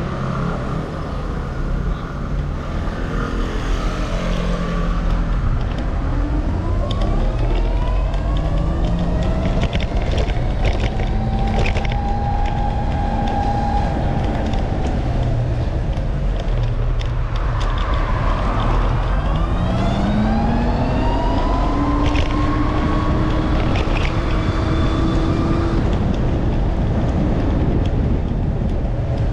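Motorbike engine accelerating twice, its pitch rising smoothly and then levelling off each time, over a steady rumble of wind and road noise.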